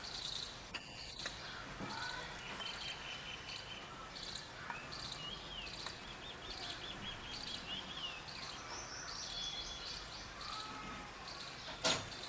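Small birds chirping: a short, high chirp repeats about twice a second, with varied gliding calls mixed in through the middle. A brief loud noise comes near the end.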